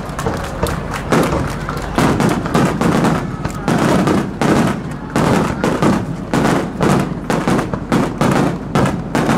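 Fireworks display: aerial shells bursting overhead one after another, a quick run of overlapping bangs with echoing tails, coming thicker in the second half.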